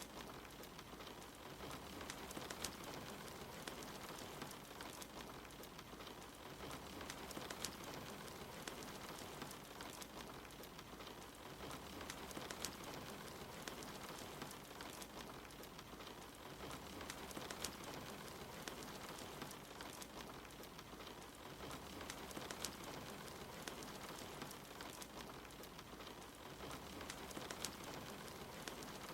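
Steady soft rain with a wood fire crackling, its small sharp pops scattered irregularly through the hiss.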